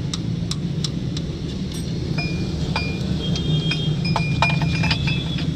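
Metal parts and tools clinking and tapping against each other, many quick sharp strikes with short high ringing tones that come thicker after about two seconds, over a steady low hum.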